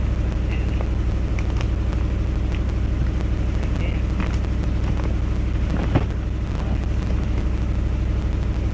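Engine idling steadily, with a single short knock about six seconds in.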